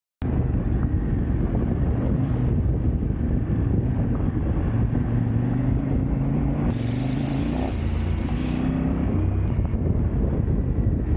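Motorcycle engine running while riding, its pitch drifting up and down with the throttle. It cuts in suddenly just after the start.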